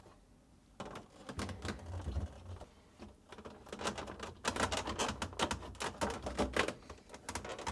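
A plastic refrigerator top panel being handled and fitted, with a run of small plastic clicks and taps as its retaining tabs are worked into the retainers; the clicking starts about a second in and comes thicker in the second half.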